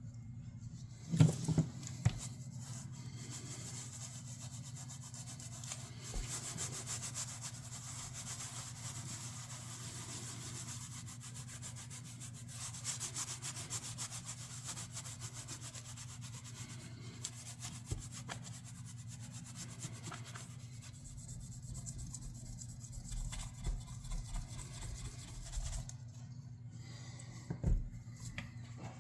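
Continuous rapid back-and-forth rubbing, like sanding, running for most of the stretch over a low steady hum. There are a few sharp knocks near the start and near the end.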